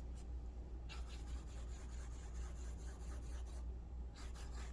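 Broad-nib BENU Euphoria fountain pen scratching lightly across thin onion skin paper in quick strokes, drawing X's and squiggles, over a steady low hum.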